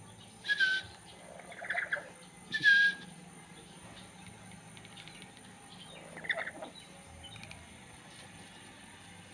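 Pet lory (nuri parrot) giving short squawking calls. Two are sharp and drop in pitch at the end, one rougher call falls between them, and another rough call comes about six seconds in.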